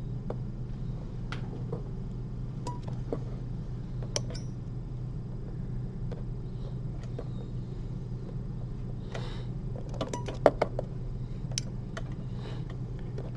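Metal surgical instruments clicking and tapping now and then, with a cluster of clicks about ten seconds in, over a steady low electrical hum.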